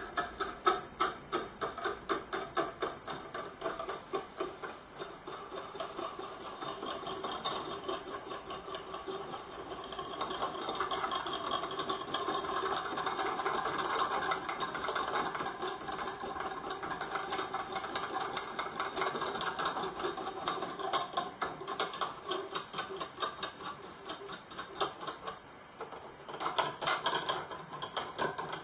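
Rapid, uneven mechanical clicking and rattling of metal parts, with a steady high whine underneath, louder in the middle.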